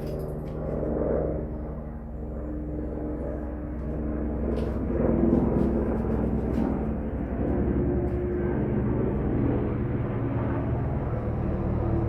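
A steady low motor or engine hum, with a few light clicks.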